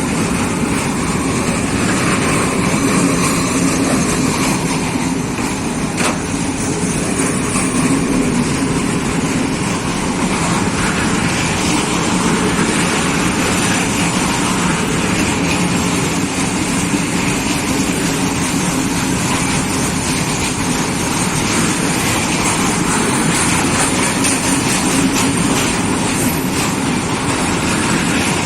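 Heavy diesel freight locomotive engine running steadily as a train of coal wagons goes by.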